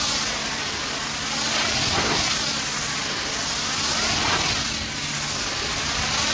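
High-pressure washer jet spraying against a truck, a steady loud hiss over a low pump-motor hum; the hiss shifts in tone about every two seconds as the wand sweeps.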